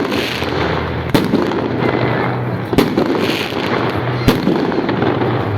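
Fireworks salute: dense continuous crackling, with three loud sharp shell bursts about a second and a half apart.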